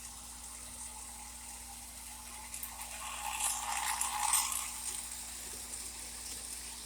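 O gauge model steam turbine locomotive running on track with a train of passenger cars: a steady whirr of the motor and gears with the clatter of wheels on rails, growing louder for about two seconds midway before settling back, over a low steady hum.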